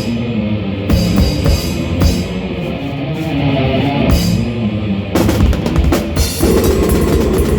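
Live rock band playing loud: a sustained guitar and bass riff over a drum kit with bass drum and cymbals, the drumming turning to rapid, dense hits about five seconds in.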